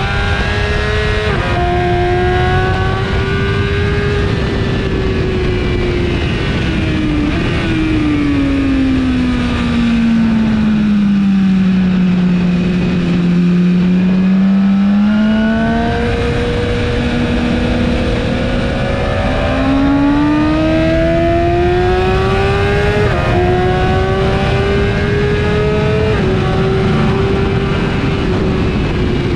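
BMW S1000RR inline-four sport bike with an Akrapovic exhaust at speed on track, revs climbing and dropping sharply at several gear changes. About a third of the way through the revs sweep down to a low note for a corner, then climb back up through the gears. Wind rush runs under the engine.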